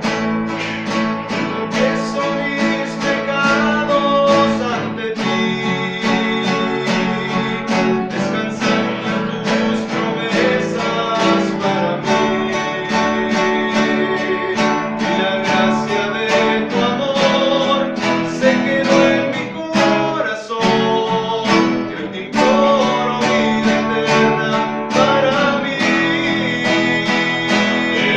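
A rondalla of acoustic guitars playing: strummed chords under a plucked melody line.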